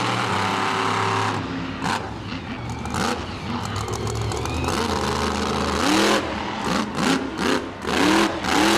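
King Krunch monster truck's engine running hard, then from about six seconds in revved in a quick series of sharp bursts, each rising in pitch.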